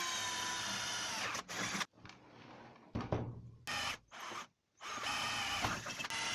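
Electric drill running in several runs, stopping and starting again, while drilling 4 mm holes through a circular saw's base plate.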